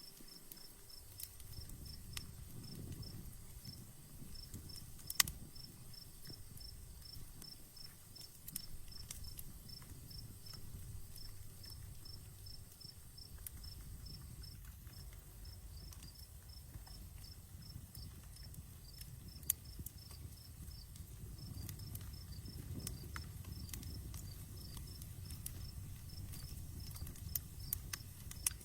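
Outdoor campfire crackling, with scattered sharp pops (the loudest about five seconds in) over a low rumble of flames that swells and fades. A cricket chirps in a steady, even pulse throughout.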